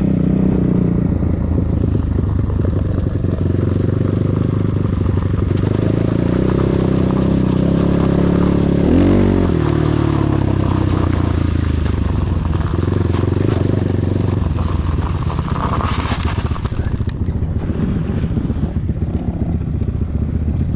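KEWS K16 PRO enduro motorcycle engine running steadily while riding, with a quick rev up and back down about nine seconds in. A short rushing noise comes through about sixteen seconds in.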